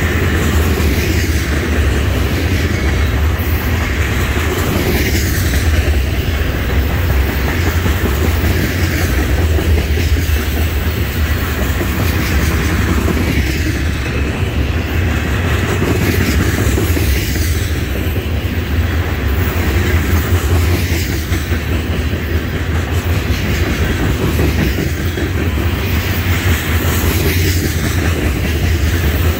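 Tank cars of a long oil train rolling past close by: a steady, loud rumble of steel wheels on rail with clickety-clack from the wheelsets.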